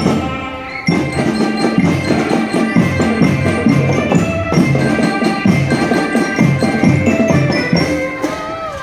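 A marching drum band playing: rapid snare and bass drum strokes under a melody carried by bell lyres.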